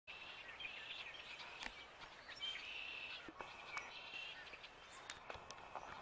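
Birds chirping and twittering: a steady run of short, high calls and brief trills, with a few sharp ticks among them.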